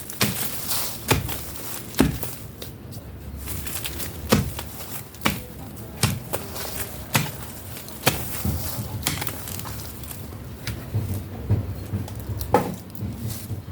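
A series of sharp thuds and knocks, about one a second and slightly irregular, from hand work in garden soil.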